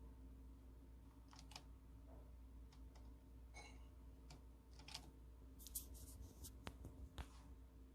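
Faint, irregular clicks and taps, about a dozen, coming closer together and a little louder in the second half, over a low steady room hum.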